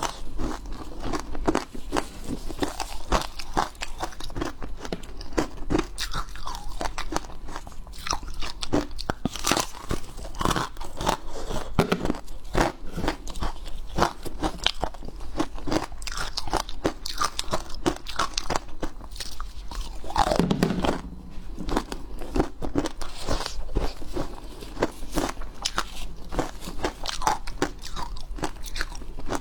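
Hard ice being bitten and chewed: a continuous run of sharp cracks and crunches.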